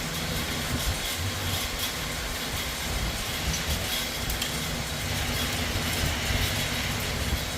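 Electric fan running: a steady rushing noise with a rumbling low end, and a few faint ticks over it.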